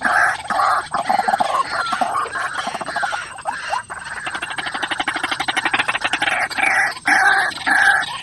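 White-breasted waterhen calling: a loud run of repeated short, harsh notes. About halfway through, the notes give way for a few seconds to a fast, even rattling series, then the repeated calls return.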